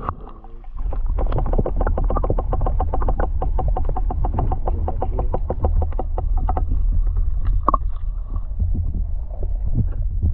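A camera microphone held under the river's surface: a loud, muffled low rumble with rapid crackling clicks, several a second, and the high sounds cut away.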